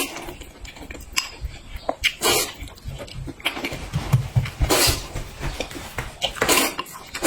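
Close-miked eating sounds: wet chewing and mouth noises with small clicks, broken by several short, loud breathy bursts.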